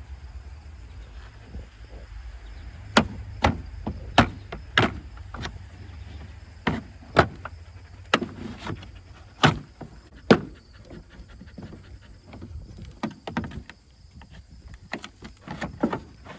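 Plastic trim piece being pried off a vehicle's rear bumper: irregular sharp snaps and cracks as it is levered free, loudest a little before the middle, over a steady low hum.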